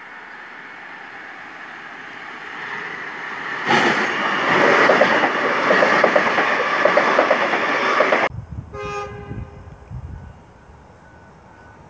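Stainless-steel electric multiple-unit train rushing past close by, wheels clattering rhythmically over the rail joints, building up and then cutting off abruptly about eight seconds in. Right after, a train horn sounds briefly from a train approaching in the distance.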